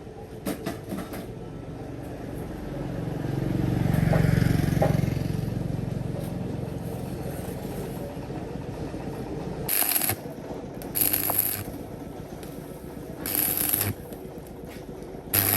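A motor vehicle's engine swells as it passes and then fades, followed by four short metallic scraping noises spaced a second or two apart.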